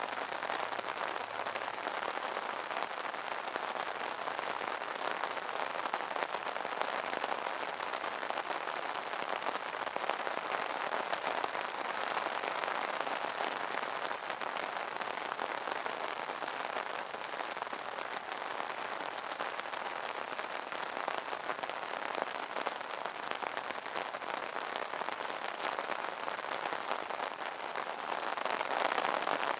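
Rain pattering steadily on an umbrella, a dense spatter of fine drop taps that swells slightly and grows a little louder near the end.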